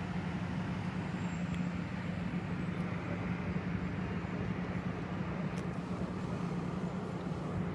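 Steady low engine hum of an idling vehicle, with even road-scene noise.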